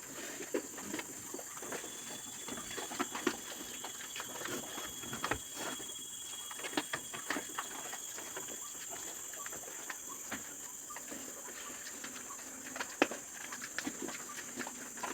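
Pigs moving about in a pen: scattered light clicks and scuffles over a steady high hiss.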